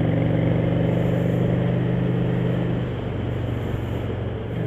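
Motorcycle engine running steadily under a hiss of wind and road noise. About three seconds in, the engine note drops away as the throttle is eased off, and it comes back in at the very end.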